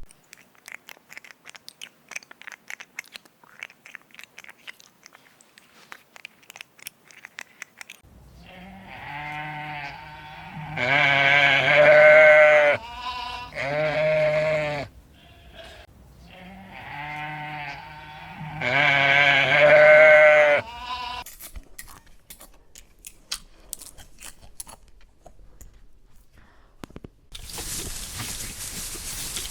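Long, wavering bleats from a goat or sheep, in two similar runs of several calls, the loudest calls about eleven and nineteen seconds in. Before them come soft, scattered crunching clicks, and near the end a steady hiss.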